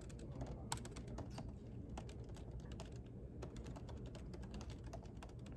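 Typing on a computer keyboard: quick, irregular key clicks over a low steady hum.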